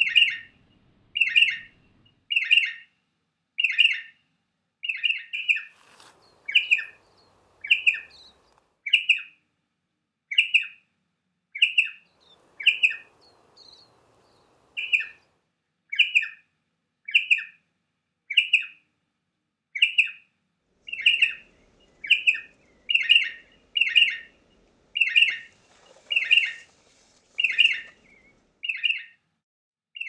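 Striated pardalote calling: a short, sharp, clipped call repeated steadily about once a second, coming a little quicker in the second half.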